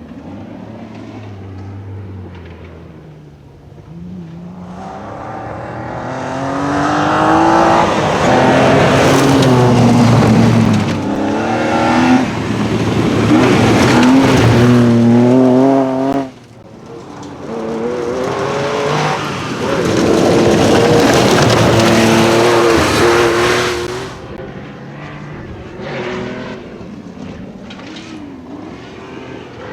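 Rally car engine at full throttle on a gravel stage, approaching and getting loud, its pitch climbing and stepping through gear changes. The sound drops off abruptly about sixteen seconds in, comes back loud for a second stretch of hard acceleration, then fades away.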